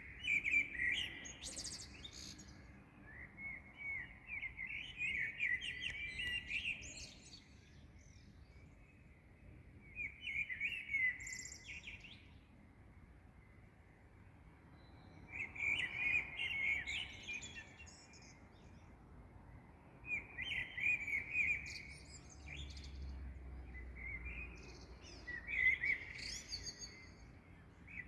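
Songbirds singing at dawn: quick twittering phrases of a second or a few seconds each, repeated with short pauses between them.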